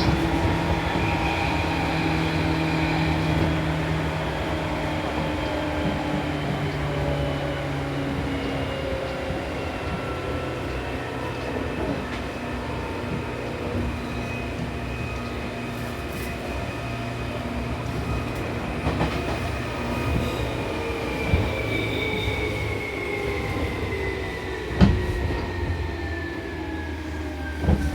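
Seibu New 2000 series electric train slowing for a station stop: the traction motor whine falls steadily in pitch as the train brakes, over the rumble of wheels on rail. A few sharp knocks come in the second half.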